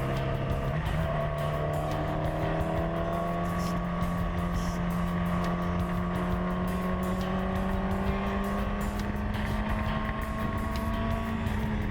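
Yamaha R6's inline-four engine running steadily under load, heard close up from the tank with wind noise. Its pitch steps up about a second in, then rises slowly as the bike gains speed, easing off slightly at the very end.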